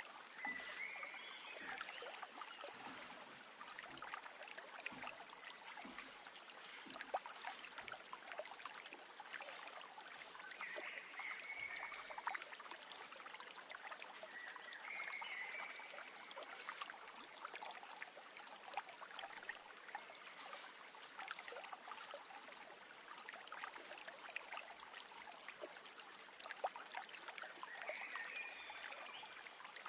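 Water trickling in a stream, with a bird chirping briefly a few times over it.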